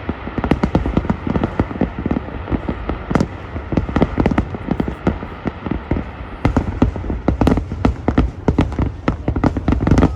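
Distant fireworks display: a rapid, continuous volley of bangs and crackles several times a second, echoing over a low rumble.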